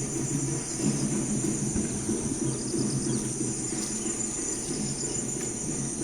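Insects chirring steadily in a high, continuous buzz, over a low rough noise.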